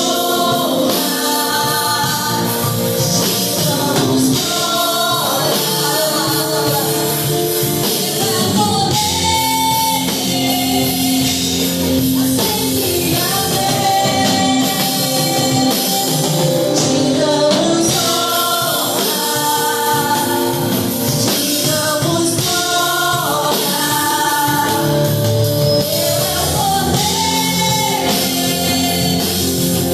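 Gospel worship song: voices singing over a band with drums.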